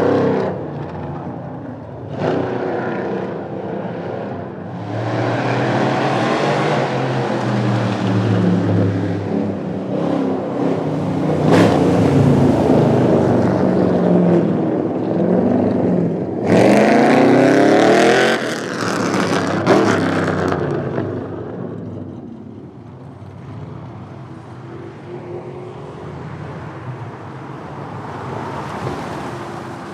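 Car engines revving and accelerating hard on a drag strip pass, the engine pitch climbing and falling through the gears, loudest with a sharp rising rev about 17 seconds in. The engine noise drops off after about 21 seconds.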